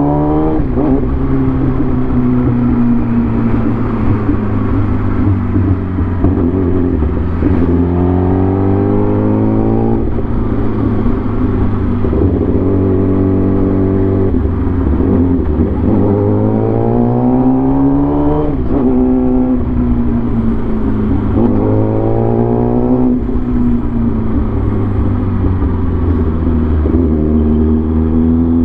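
A vehicle engine running on the move, its revs climbing and dropping back again and again, over a steady low drone.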